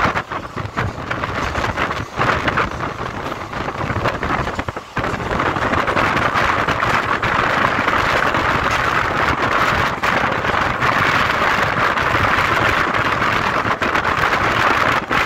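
Indian Railways passenger coach running at speed on a curve, heard from its open door: a steady rushing rumble of wheels on rails mixed with wind past the carriage, a little uneven in the first few seconds, then steady.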